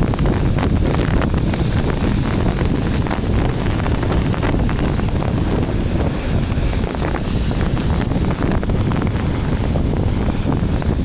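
Wind buffeting the microphone, loud and gusty, over the rush of breaking sea surf.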